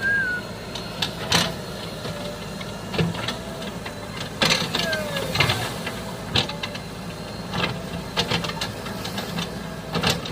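Heavy diesel engine idling steadily, with irregular sharp knocks and clatter over it and a few short whistle-like glides.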